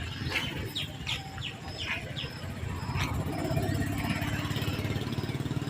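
A bird gives a quick run of short, falling chirps during the first two seconds. Then a motor vehicle's engine grows louder from about three seconds in and runs steadily as the loudest sound.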